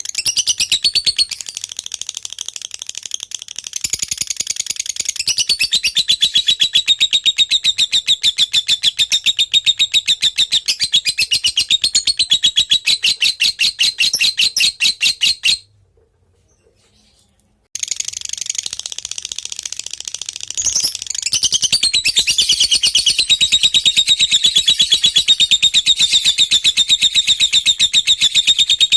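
Lovebird singing a long, unbroken, rapid chatter of high shrill notes. The song stops abruptly for about two seconds a little past halfway, then carries on.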